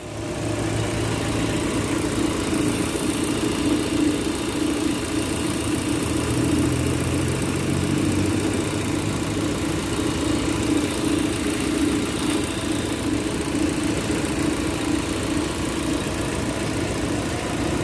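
Proton Campro four-cylinder engine idling steadily with an even hum.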